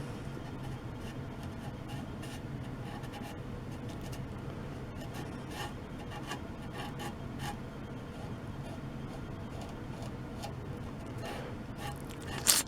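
A cotton rag being rubbed over a wooden piece to wipe on a coat of finish, making soft, irregular scuffing strokes. A sharp click comes just before the end.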